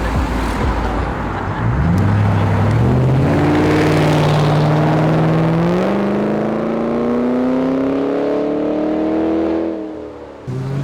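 A car engine accelerating hard as it pulls away, its note climbing steadily in pitch for about seven seconds after a low rumble, then dropping off near the end as another engine starts up.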